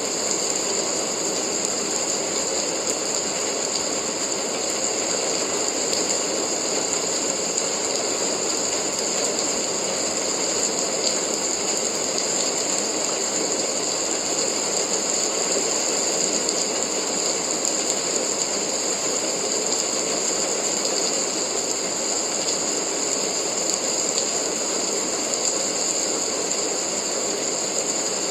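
Steady rain: an even, unbroken hiss with a fine crackling texture.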